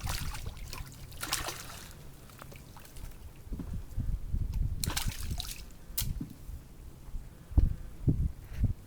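Water splashing and sloshing beside a kayak in short bursts, with a few dull thumps near the end.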